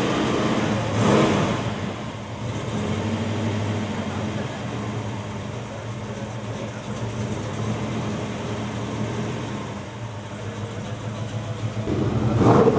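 Car engine idling with a steady low note, blipped briefly about a second in and revved up again near the end.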